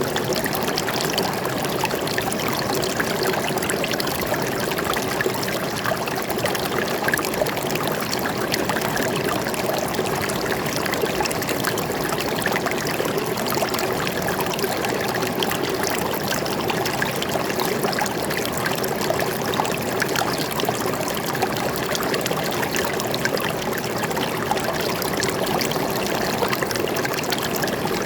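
Forest stream flowing and trickling, a steady even rush of water.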